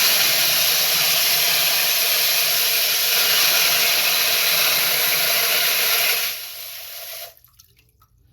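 Water under mains pressure rushing out of an opened toilet water supply into a container, a loud steady hiss. It drops lower about six seconds in and stops suddenly about a second later. The water flows freely, which shows the supply line itself was clogged.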